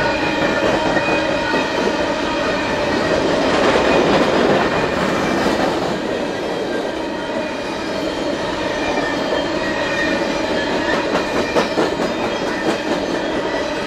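Empty coal hopper cars of a freight train rolling past on steel wheels and rails: a steady rolling rumble with a ringing whine, louder about four seconds in. Near the end come quick clacks and knocks as wheels pass over the rail joints.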